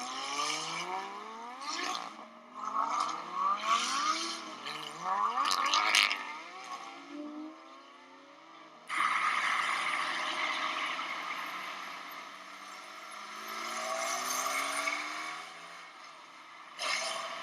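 Vehicle engine revving up again and again, each run rising in pitch and then dropping as it shifts or lets off, mixed with scraping noise. About nine seconds in it gives way suddenly to a loud steady rush of noise with fainter rising revs.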